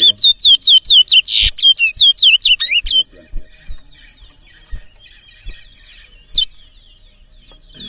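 Towa-towa (chestnut-bellied seed finch) in full song: a fast, loud run of repeated falling whistled notes, about four a second, that breaks off about three seconds in. Softer twittering follows, with a thump about one and a half seconds in and another near six seconds.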